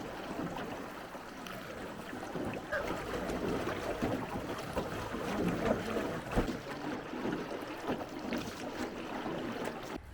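Water splashing and lapping around a small rowed river boat, an irregular noise with a few sharp knocks.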